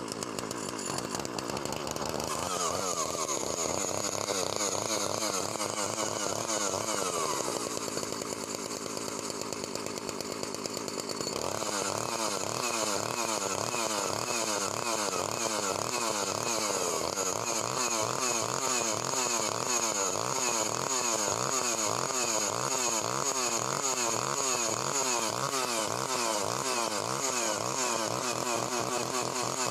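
Komatsu Zenoah G380AVS two-stroke chainsaw engine running, its speed drifting up and down. About eleven seconds in it gets louder and settles into a rapid, regular rise-and-fall wavering in pitch.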